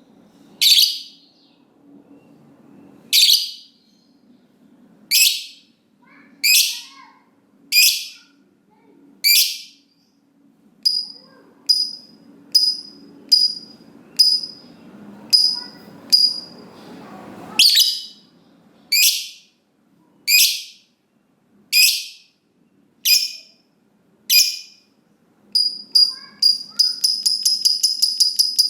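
Lovebird calling: sharp, shrill single calls about every second or so, with a quicker run of shorter calls in the middle. Near the end it breaks into a fast chattering trill, the 'ngekek' that lovebird keepers prize.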